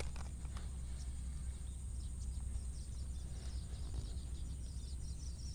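Rice-field ambience: a steady high insect drone over a low rumble, with a run of faint quick chirps in the second half.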